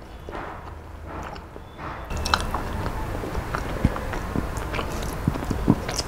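Close-miked chewing of a mouthful of shrimp pulao, with many small wet mouth clicks, over fingers mixing rice on a steel plate. The sounds get louder from about two seconds in.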